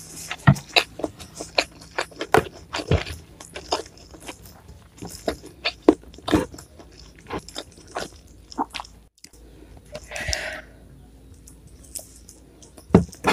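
Close-miked chewing and biting of food, with many sharp, crisp crunches coming irregularly through the chewing.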